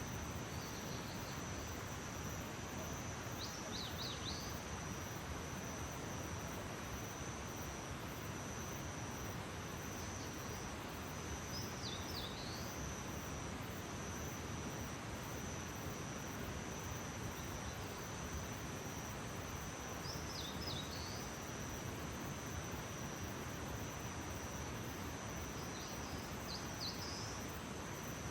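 Early-morning nature ambience: insects trilling steadily on one high note over an even hiss, with a bird giving four short clusters of quick, falling chirps about eight seconds apart.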